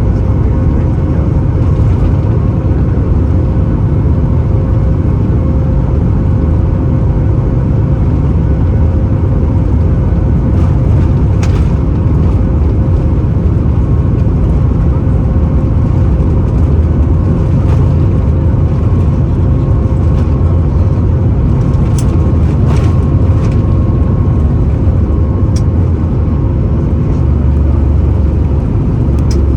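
Steady cabin noise of a Boeing 737 MAX 8 airliner: a loud, even low rumble of engines and airflow with a constant hum, and a few brief clicks.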